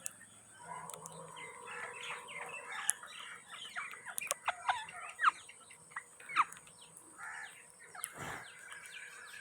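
Indian ringneck parakeets calling: a busy run of short squawks and sharp chirps, several sliding downward in pitch.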